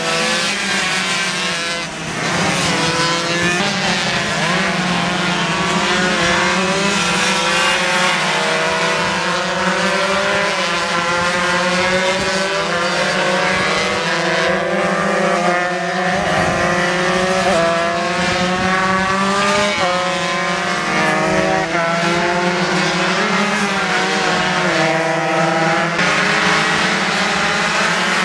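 Engines of several underbone racing motorcycles revving hard on track, their pitch repeatedly climbing and dropping as the riders shift gears and pass one another.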